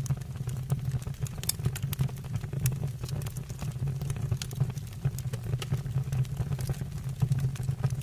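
Fire burning in a fireplace, crackling with many irregular short pops over a steady low rumble.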